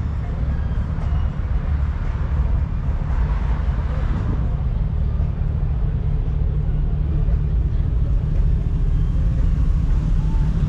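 Steady low rumble of car and truck engines.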